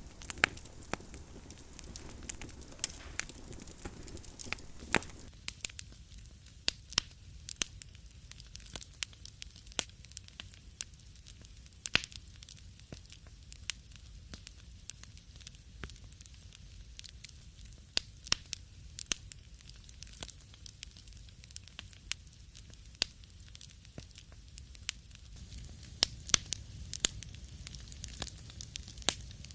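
Wood fire crackling in a fireplace: frequent irregular sharp pops and snaps over a soft hiss. The hiss thins out about five seconds in and comes back near the end.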